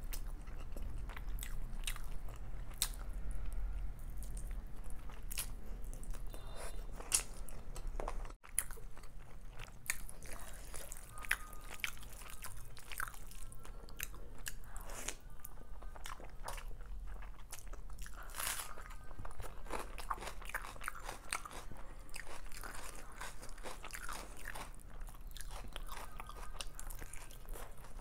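Close-miked eating sounds: chewing mouthfuls of chicken biryani eaten by hand, with many short wet mouth clicks and crackles. The sound drops out for a moment about eight seconds in.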